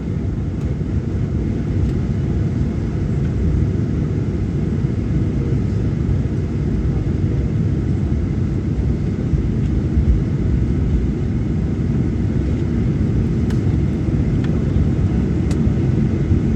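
Cabin noise of a Boeing 737-900ER after landing: a steady low rumble from its CFM56-7B engines and airframe as it taxis.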